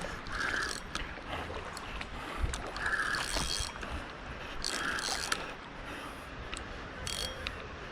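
Fishing reel clicking and whirring in about four short bursts, roughly two seconds apart, while a hooked carp is being played.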